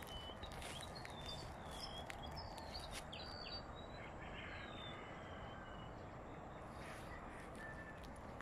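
Small birds chirping: short, high, mostly falling chirps, many in the first half and a few more near the end, over a faint outdoor background with light crunching of dry cut grass underfoot.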